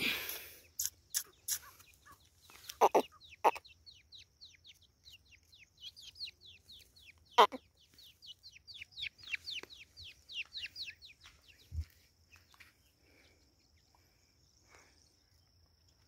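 A small bird chirping in fast runs of short, falling peeps, several a second, with a few sharper, louder sounds in between; the chirping dies away about eleven seconds in. A thin, steady high-pitched whine runs underneath.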